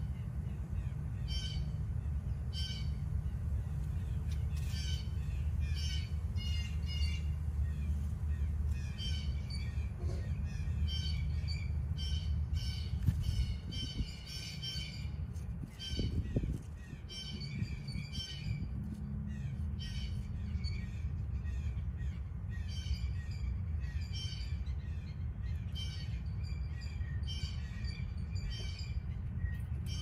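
Small birds calling in short, harsh chirps, repeated about once or twice a second, over a steady low hum.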